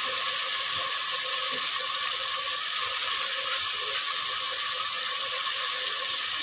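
Tomato masala frying in oil in an aluminium pot on the stove: a steady, even sizzle. The masala is fried through, ready for the dal to go in.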